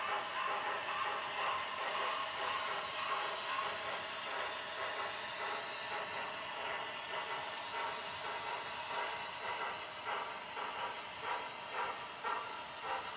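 Model train running on its track: a steady mechanical whir and rattle of motor and wheels, with a rhythmic clicking of about two beats a second near the end.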